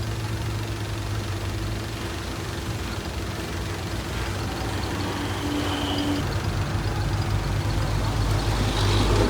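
Heavy diesel engine of earthmoving machinery running steadily, growing gradually louder toward the end.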